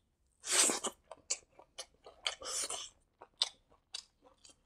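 Close-up chewing of a handful of fried rice, eaten by hand: fast, irregular crunches and mouth clicks, with two longer, louder bursts about half a second in and again around two and a half seconds.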